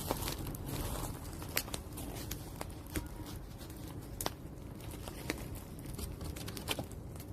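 Wood fire crackling in an outdoor garden fire, with irregular sharp pops and snaps over a steady low rumble.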